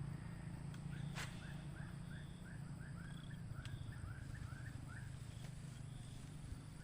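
A bird calling in a rapid series of short, repeated chirps, about two or three a second, over a steady low hum.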